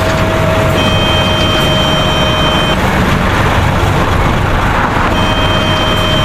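Bus engine sound effect running loudly and steadily, with a steady whining tone that sounds for about two and a half seconds at the start and again near the end.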